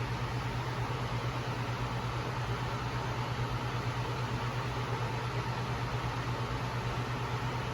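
Steady cockpit noise of a jet airliner-type aircraft in cruise: a constant rush of air and a low droning hum, with a faint steady whine above it.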